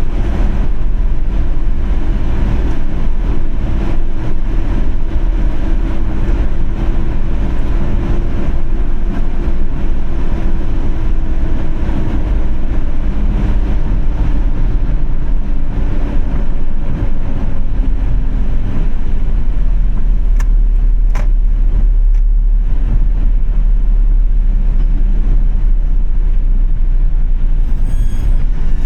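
Car driving in traffic: a steady low engine and road rumble, with a faint tone that slowly drops in pitch as the car slows. A few sharp clicks come about two-thirds of the way in, and a short run of ticks comes near the end.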